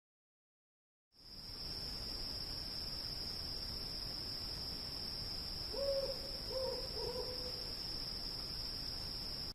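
Night ambience: crickets chirring as one steady high tone, fading in about a second in, with an owl hooting three times around the middle.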